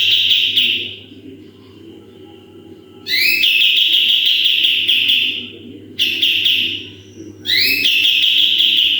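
A kapas tembak songbird singing loud, fast rapid-fire 'tembakan' phrases: four bursts of quickly repeated high whistled notes, each starting with a short upward sweep, the longest lasting about two and a half seconds in the middle.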